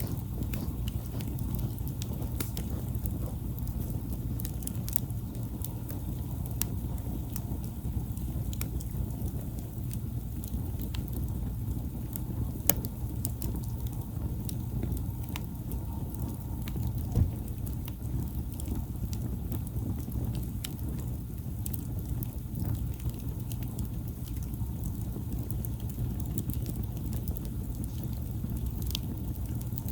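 Wood campfire burning, with scattered sharp crackles and pops over a steady low rumble; two louder pops come about a third and halfway through.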